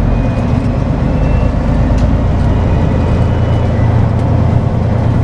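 Semi truck's diesel engine running at low speed while driving, a steady low rumble heard from inside the cab.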